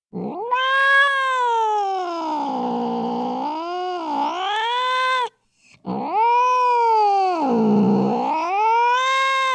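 Angry cat caterwauling: two long, drawn-out yowls, each climbing in pitch, sinking low in the middle and climbing again. The second starts about six seconds in.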